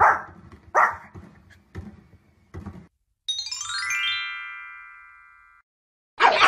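A small fluffy dog barks four times in quick succession. Then a short chime jingle plays, notes rising quickly in pitch and ringing out together before fading. Near the end a pug starts yapping rapidly.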